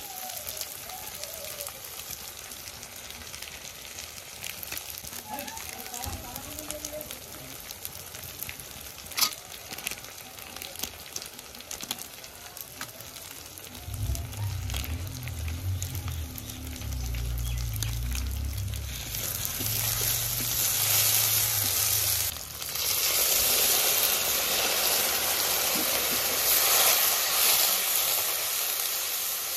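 Onion and spice masala sizzling as it fries in an iron kadai, with a metal spatula scraping and clicking against the pan as it is stirred. A low rumble comes in around the middle for several seconds, and the sizzle grows louder for the last third.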